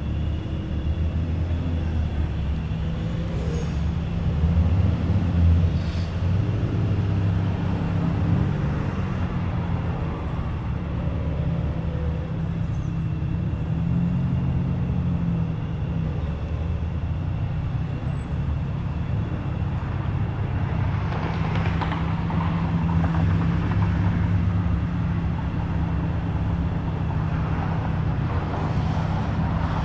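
Car engines idling and creeping past at low speed: a steady low engine drone that shifts in pitch now and then, with a brief rise in noise about three quarters of the way through.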